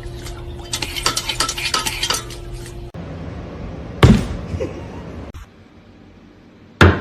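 A quick run of light clinks and rattles, like tableware knocking together, for about two seconds. Then come two separate loud knocks, one about four seconds in and one near the end.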